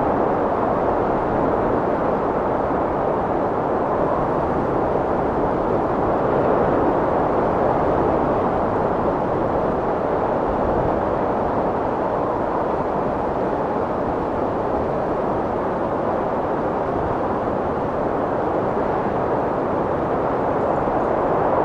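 Strong wind blowing steadily, a dense rushing noise that swells slightly and eases again without gusting breaks.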